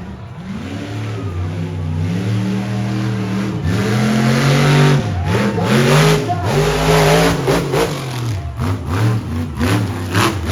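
Monster truck engine revving hard, its pitch rising and falling again and again, loudest around the middle. A run of short, sharp sounds comes near the end.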